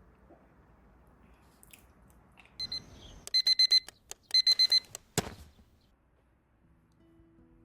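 Electronic alarm beeping in two quick groups of high beeps, about four beeps each, followed by a single sharp click.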